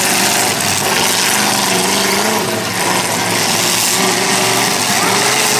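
Demolition derby cars' engines running and revving together, loud and steady, with their pitches wavering up and down.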